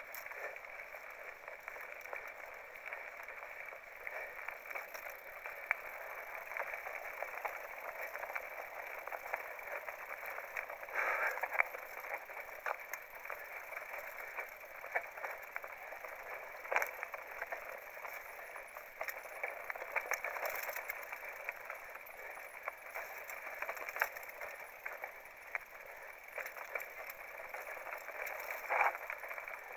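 Mountain bike riding down a rough trail: a steady rush of tyre noise with frequent rattles and knocks from the bike over rocks and bumps.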